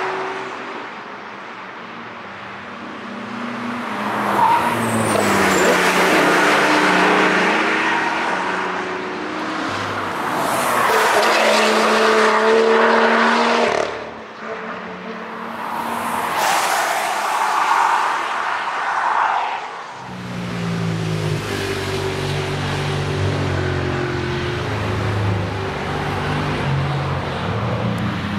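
Cars passing one after another at speed on a race track, each engine note swelling and fading as it goes by. About two-thirds of the way through, a lower, steadier engine note takes over.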